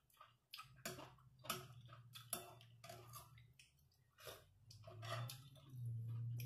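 A person chewing food, with irregular soft clicks from the mouth and a low hum underneath.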